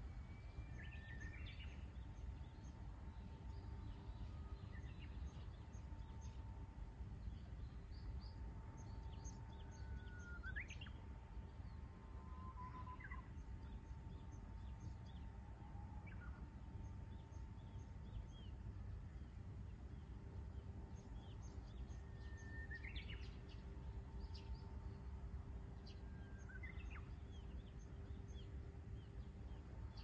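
Faint outdoor ambience of a low steady rumble and a faint steady hum, with a songbird singing at intervals. Its phrases are a short held whistle that sweeps sharply upward, heard about a second in, around ten seconds, and twice in the last third, with thin chirps between.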